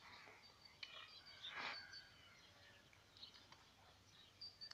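Near silence with faint bird chirps in the background, and one brief soft noise about one and a half seconds in.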